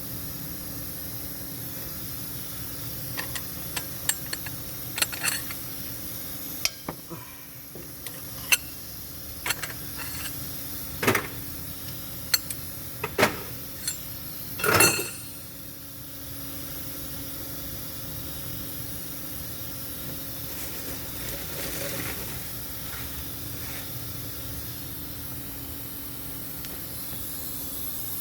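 Metal tools and engine parts clinking and knocking: about a dozen sharp separate clicks over the first half, ending in one longer metallic rattle about fifteen seconds in, over a steady background hum.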